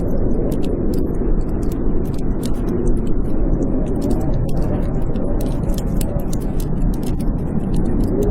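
Wood fire in a fireplace crackling, with frequent sharp pops and ticks, over the steady low rumble of blizzard wind.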